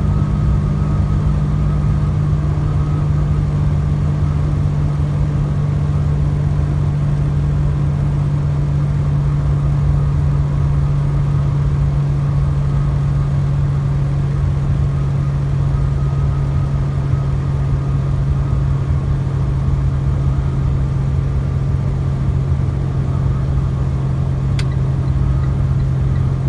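Truck engine and road noise heard from inside the cab while driving: a steady low hum that holds level throughout.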